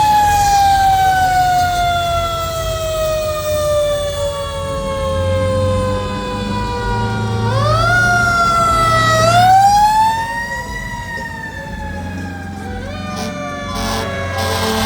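Fire truck siren winding slowly down in pitch, then wound back up twice in quick succession and left to fall again, over the low rumble of the truck's engine. Other siren tones join near the end.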